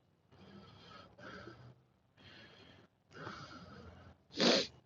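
A person's breathing: four soft breaths, then a louder, sharper exhale near the end.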